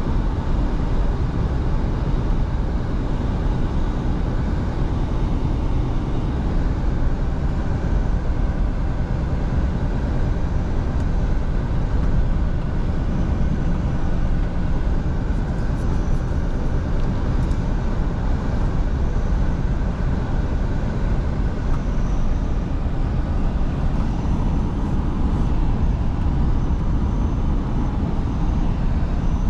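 Scania V8 truck on the move at a steady pace: a constant low engine hum under road and wind noise.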